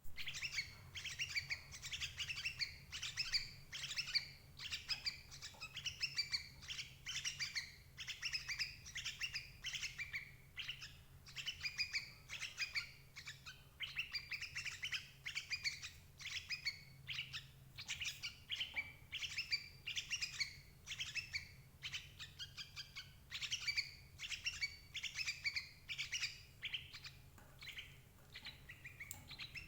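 Yellow-vented bulbul (cerucuk/trucukan) calls used as a trapping lure: rapid chattering phrases repeated about once a second without pause, over a faint low hum.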